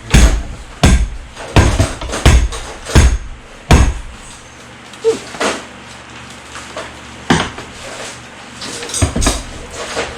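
Mallet blows striking a stuck part to knock it loose: six steady strikes about two-thirds of a second apart, then a few scattered ones, twice in quick pairs.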